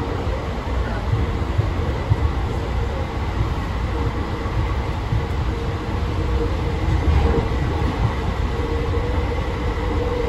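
AirTrain JFK automated people-mover car, a Bombardier ART Mark II, running at speed along its elevated guideway, heard from inside the car. It makes a steady, even rumble of wheels on rail with a faint constant whine.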